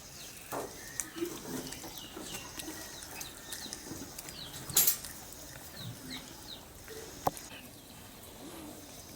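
Scattered short, high bird chirps over a quiet rural background, with a few light clicks and one sharp knock about five seconds in.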